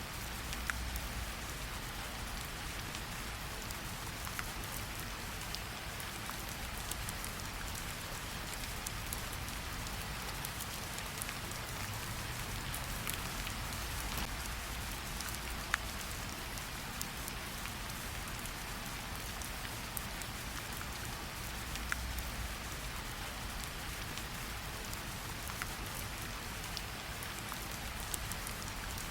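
Steady gentle rain pattering on tree leaves, with scattered louder individual drops dripping through the steady hiss.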